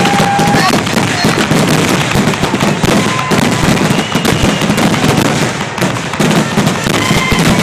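Fireworks grand finale: a dense, continuous barrage of rapid bangs and crackles, with a few short whistling tones over it.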